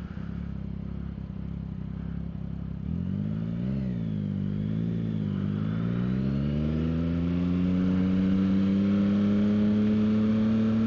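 Yamaha XSR900 GP's inline-three engine running low and steady, then revving up and down a few times about three seconds in, before climbing smoothly in pitch as the bike accelerates and settling into a steady drone.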